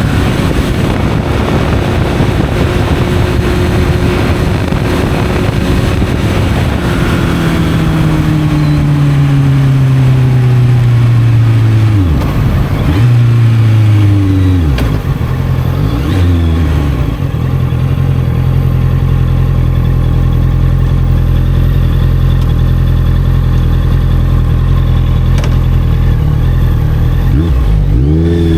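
Honda CB650F inline-four motorcycle engine through an Arrow exhaust. The engine pitch falls steadily as the bike slows, dips and picks up twice around halfway, then holds a steady note. There is a quick rev near the end.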